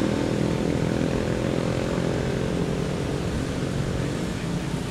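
Motorcycle engine running steadily, a low even drone whose higher notes fade a little near the end.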